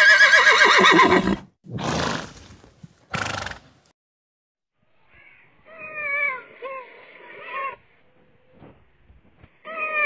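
Horse whinnying: one loud call that falls and quavers in pitch, followed by two short, breathy snorts. A few seconds later come quieter wavering, bleat-like animal calls, once for about two seconds and again briefly near the end.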